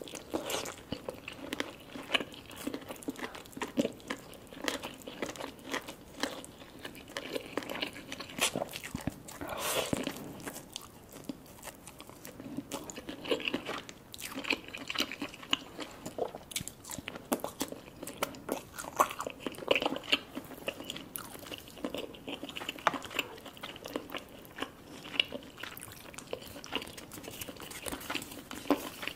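A person chewing and biting lobster claw meat: a steady run of small irregular clicks and crackles from the mouth.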